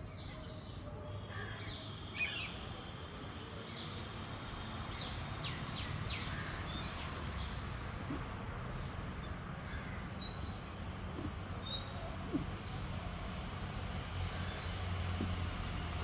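Wild birds chirping in short, scattered calls, with a quick run of high notes about ten seconds in, over a steady low hum.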